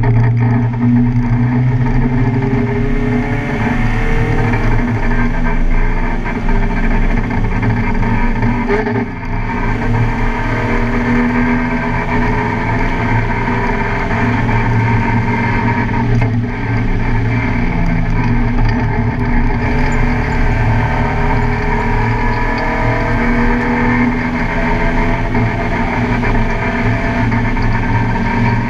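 Car engine working hard on a race track, its revs climbing and falling as it goes through the gears, with a brief lift about nine seconds in.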